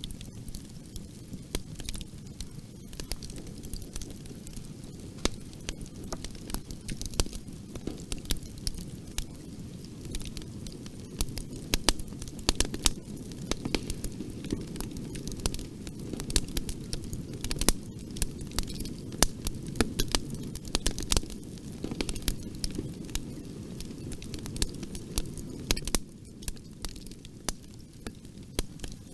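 Fire crackling in a fireplace: frequent, irregular sharp pops and snaps over a steady low rush of the flames.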